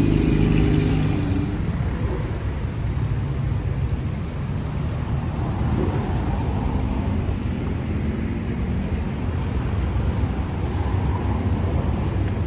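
City street traffic: a steady rumble of engines and tyres, with one vehicle passing close at the start, its engine note falling as it fades within the first two seconds.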